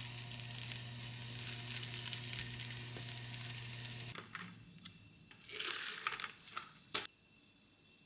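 Plastic packaging crinkling and tearing over the steady hum of a kitchen appliance, which cuts off about four seconds in. A louder rustle follows, then a sharp click near the end.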